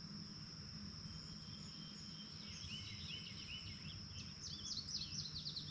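Outdoor morning ambience: a steady high insect trill with a low hum beneath it. From about halfway through, a songbird sings quick, rapid chirping notes that grow busier and louder near the end.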